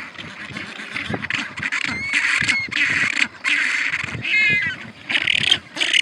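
Birds calling: a run of harsh calls about half a second each, with a short warbling call about four and a half seconds in.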